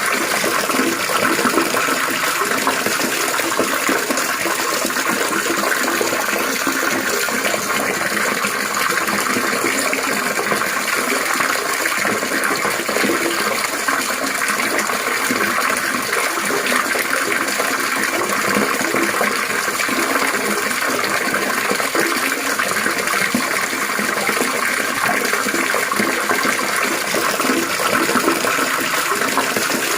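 Trickling, splashing water running steadily without a break.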